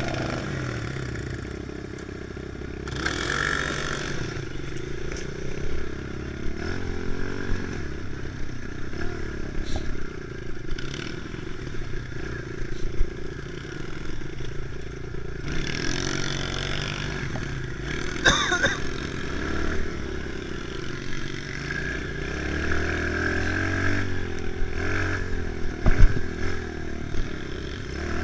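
Kawasaki KLX110 pit bike's small single-cylinder four-stroke engine riding a dirt track, revving up and backing off repeatedly, with occasional knocks and clatter from the bike over rough ground.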